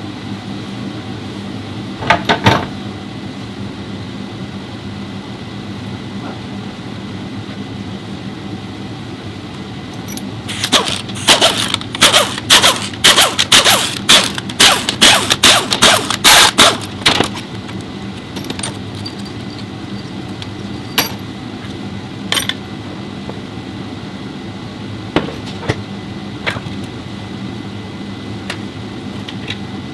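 Sharp metallic knocks and clatter from tool work, over a steady hum. A few single knocks are followed by a run of them about twice a second for several seconds midway.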